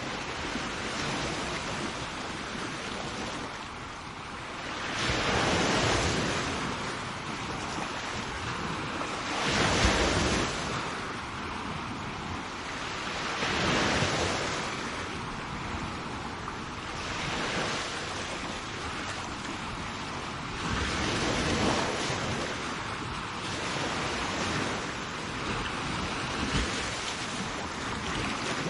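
Sea waves breaking and washing up a shore: a continuous rush of surf that swells into louder breakers every several seconds.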